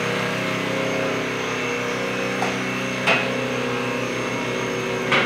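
A motor running steadily, with a few sharp knocks, the loudest about three seconds in and again near the end.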